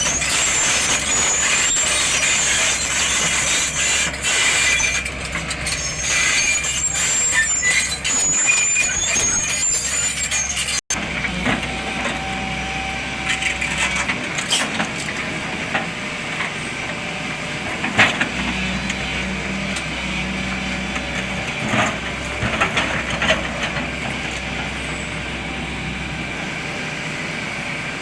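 Sany 210 excavator working: steady engine noise with a high wavering squeal over it in the first part. After a break about eleven seconds in, it runs with a lower steady hum and scattered metallic knocks.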